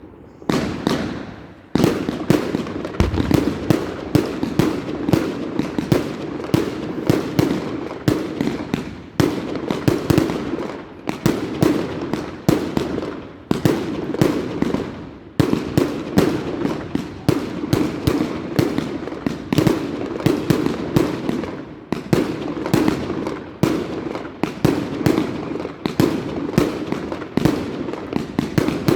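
Fireworks going off in a dense, continuous barrage of bangs and crackles, several a second, building up to full density about two seconds in.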